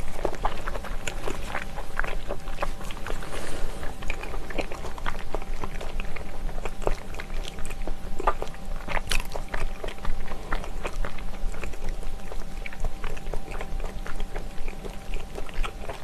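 Close-miked chewing of soft, gelatinous braised ox knee (beef knee cartilage and tendon), with a steady run of irregular wet mouth clicks and smacks.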